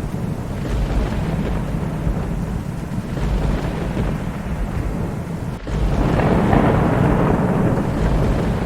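Thunderstorm: continuous deep thunder rumbling over steady rain. After a momentary break about two-thirds in, a louder roll of thunder swells up.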